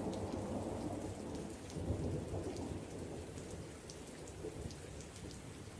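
Steady rain falling, with a low rumble of thunder beneath it and scattered drops ticking. It slowly fades.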